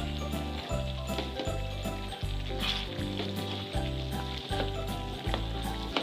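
Chicken pieces in a thick tomato sauce sizzling in a wok as they are stirred, over background music with a steady beat.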